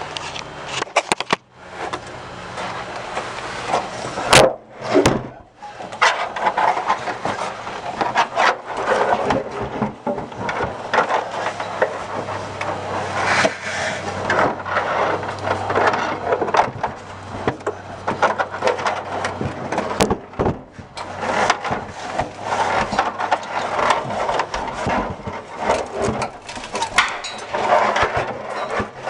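Continuous scraping and rubbing from hand work on a part, with frequent sharp knocks and clicks.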